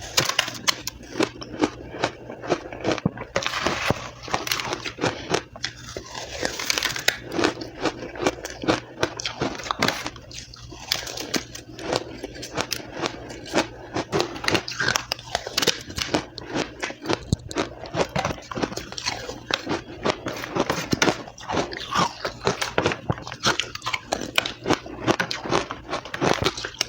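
Close-up crunching and chewing of soft, powdery crushed ice, in quick, irregular bites that crackle almost without a break.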